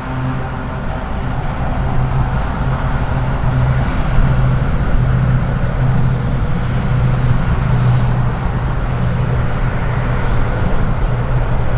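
An engine running steadily: a constant low hum over a rumbling noise, growing slightly louder after about two seconds.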